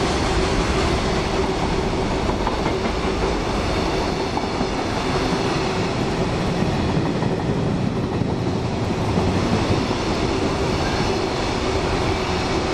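Freight train rolling past, with a continuous rumble of wheels on the rails and a steady hum held throughout.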